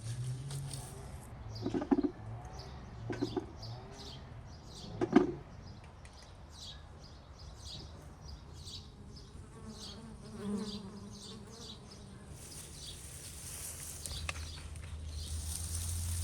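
Small birds chirping over and over in short, high, falling notes. Three dull thumps come in the first five seconds, the last the loudest, and a low hum builds near the end.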